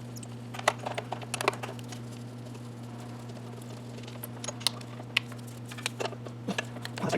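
Scattered light clicks and taps of hand tools and parts being handled at the front of the engine, over a steady low hum.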